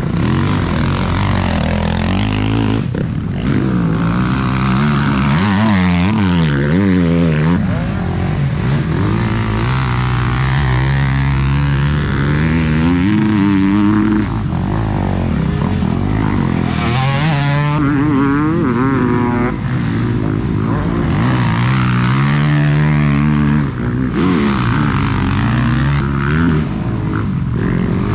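Several motocross bikes running on the track, their engines repeatedly revving up and dropping back as they accelerate and shift, with more than one bike heard at once.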